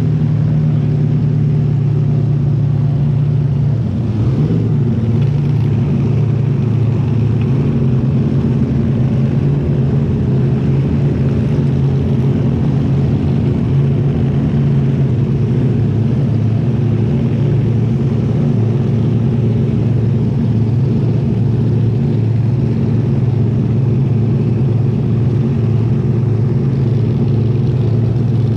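Front-engine dragster's engine idling steadily, heard close up, with a brief wobble about four seconds in.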